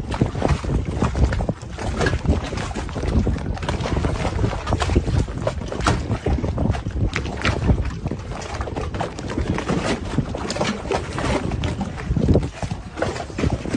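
Wind buffeting the microphone over rushing, splashing water, with irregular gusts and sharp splashes throughout.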